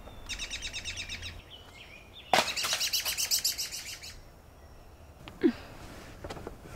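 A songbird singing in two rapid chirping trills, the second louder and longer; in the scene it is taken for a lark at dawn. A brief, loud, falling low sound comes about five and a half seconds in.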